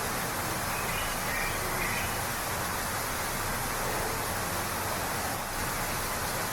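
Waterfall rushing steadily, with a few faint, short bird chirps between one and two seconds in.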